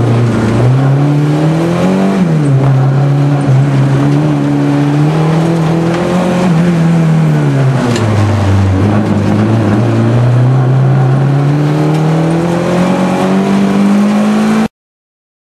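Opel Corsa A engine heard from inside the cabin, driven hard through a cone slalom: revs climb and drop repeatedly with acceleration, gear changes and lifts for the turns. The sound cuts off abruptly near the end.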